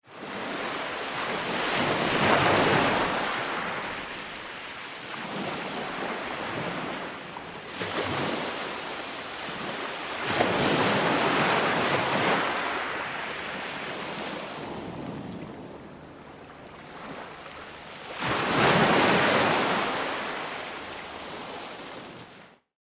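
Ocean waves breaking and washing up, swelling into three big surges about eight seconds apart and ebbing between them, then cutting off suddenly near the end.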